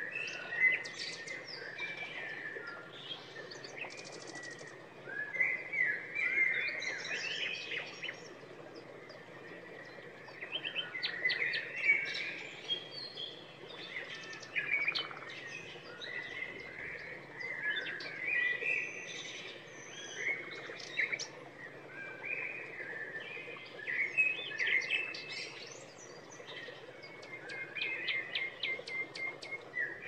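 Small birds chirping and singing: a busy run of short whistled calls and quick ticking trills, over a steady faint hiss.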